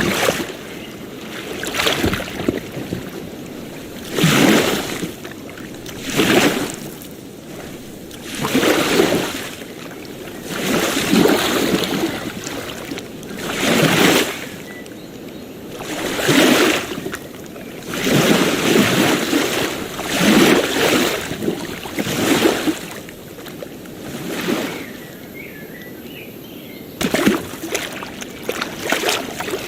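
Small waves washing onto a beach, a surge of surf every two seconds or so, with a steady hiss of water between.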